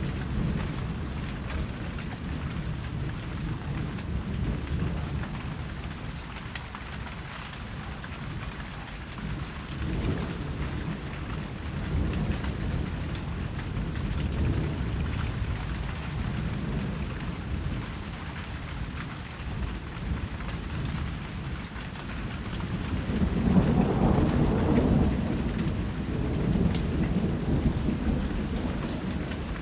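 Steady rain with low, rolling rumbles of thunder. A louder, longer roll of thunder comes about three-quarters of the way through.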